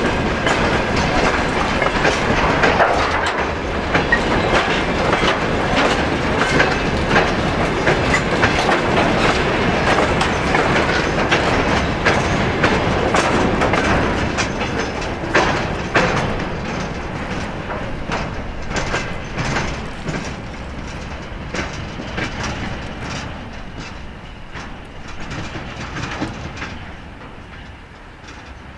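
Freight train of covered hopper wagons rolling past close by, its wheels clattering rhythmically over the rail joints. The last wagon goes by about halfway through, and the clatter then fades steadily as the train moves away.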